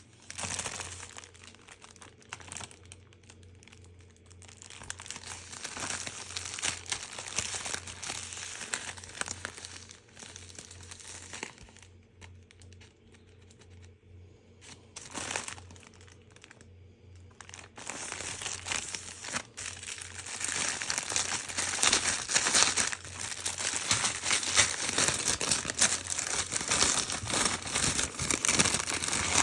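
Wrapping of a brick of China Böller firecrackers crinkling and tearing as it is handled and opened, in spells, with a quieter stretch a little before the middle and louder, denser crinkling from a little past the middle.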